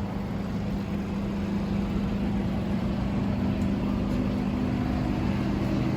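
Street traffic noise with a steady low engine hum of a motor vehicle running.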